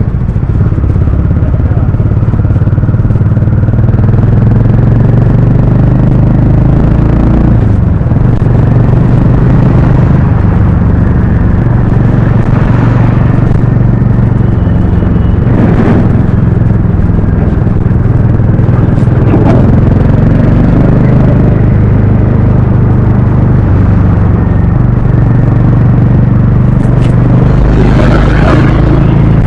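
Harley-Davidson X440's single-cylinder engine and exhaust running steadily under way at a nearly constant pitch, with a few brief surges of noise.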